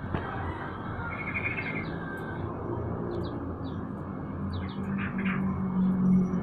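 Caged songbirds, a trucukan (yellow-vented bulbul) among them, chirping with short sharp calls and a brief trill about a second in, over a low steady hum.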